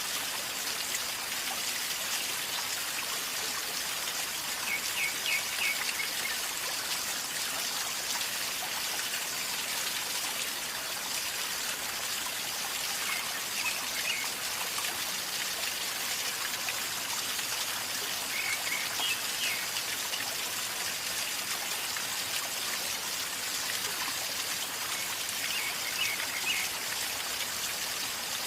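River water flowing and gurgling steadily. Short high bird chirps come through a few times.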